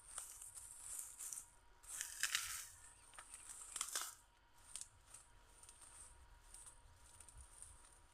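Dry leaves or grass rustling and crackling in a few short bursts, the loudest a little past two seconds in and again near four seconds, as vegetation is pushed aside or handled. A faint high buzz comes and goes underneath.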